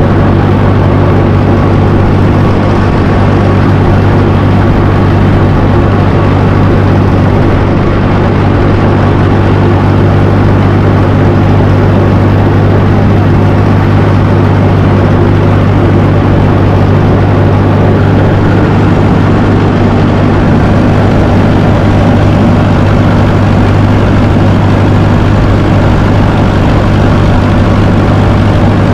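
A 1954 Fordson tractor's engine running loud and steady, an even low engine note that holds without change.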